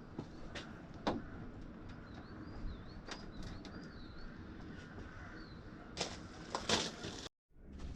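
Small birds chirping over a low background rumble, with several sharp clicks and knocks, the loudest two close together near the end; the sound cuts out for a moment just before the end.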